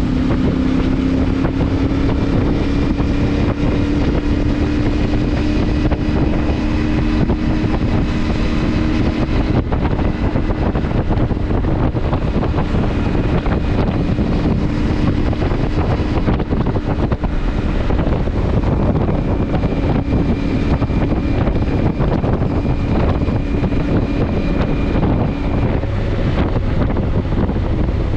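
CFMoto motorcycle engine running at a steady cruise under heavy wind noise on the microphone. Its note rises slightly over the first few seconds, then holds.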